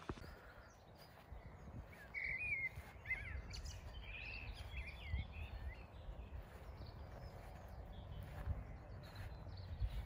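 Small songbirds singing in quick, warbling chirps, busiest from about two seconds in, over a steady low rumble.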